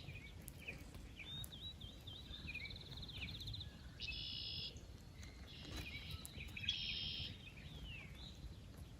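Songbirds singing: several short, high, buzzy trills and scattered chirps a second or two apart, over a low steady rumble.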